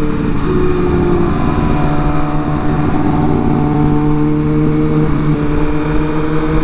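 Inline-four sport bike engine running at a steady cruise, its pitch holding nearly level with small shifts, over wind rush on the microphone.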